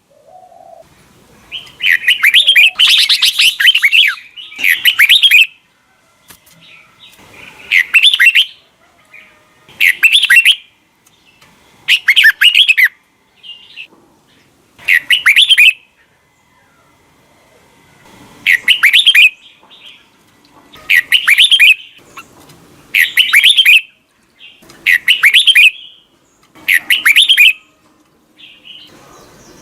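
Red-whiskered bulbul singing short, loud, warbling phrases, one every two to three seconds. The phrase about two to four seconds in is longer and denser than the rest.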